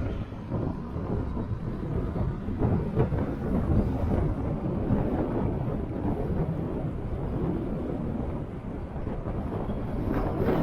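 Wind buffeting the microphone of a moving motorcycle: a dense, fluttering low rumble, with the bike's engine and road noise underneath.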